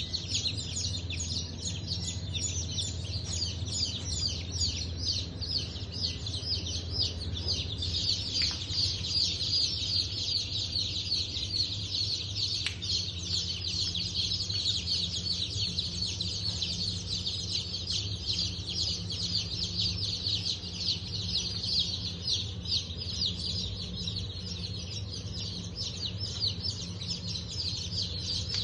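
Many newly hatched chicks and ducklings peeping all together, a dense chorus of short high chirps with no break, over a steady low hum.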